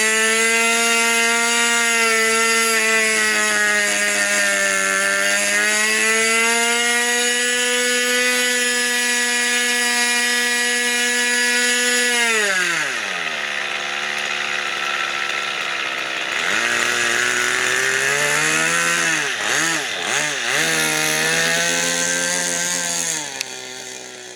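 Model airplane glow engine running on the ground at high speed, then throttled back to a lower speed about halfway, with a few quick throttle blips near the end before it drops again.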